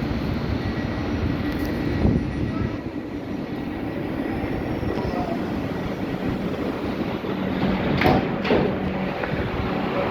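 Train running on the rails: a steady rumble and rush of noise, with a sharp thump about two seconds in and two more close together near the end.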